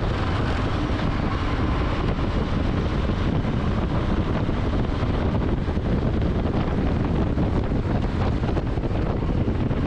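Wind rushing over the helmet-mounted microphone while riding, over the steady running of a Harley-Davidson Low Rider S's Milwaukee-Eight 114 V-twin engine.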